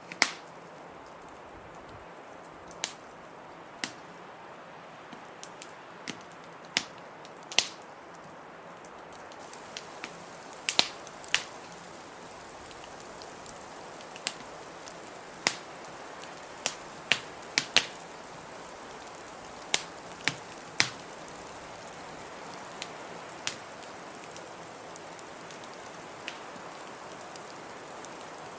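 Wood fire crackling, with sharp pops coming irregularly every second or so, over a steady hiss of blizzard wind that swells slightly about ten seconds in.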